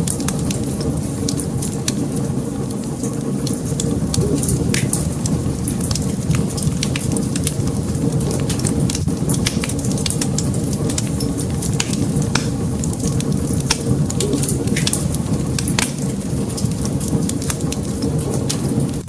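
Wood fire burning in a fireplace: a steady low rush with many sharp crackles and pops scattered throughout.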